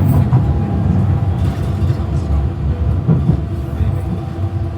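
Docklands Light Railway train running, a dense rumble heard from inside the carriage with a faint steady hum.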